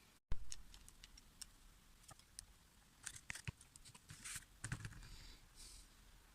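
Scattered light clicks and taps of small parts and tools being handled, with a brief rustle a little before the end, over a low steady hum.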